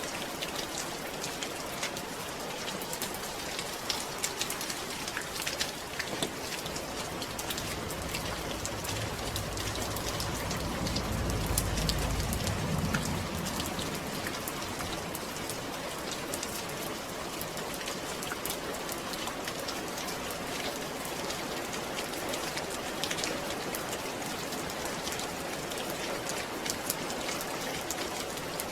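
Steady rain falling, with the patter of many drops hitting a surface. In the middle a low rumble swells and fades.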